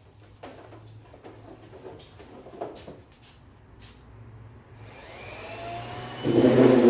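Faint handling clicks and knocks, then about five seconds in an electric motor spins up with a rising whine and runs loud and steady.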